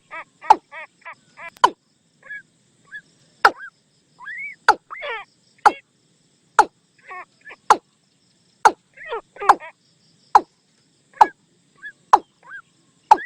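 Watercock calls played back as a decoy: a quick run of short harsh notes, then spaced calls with sharp, loud knocking notes roughly once a second.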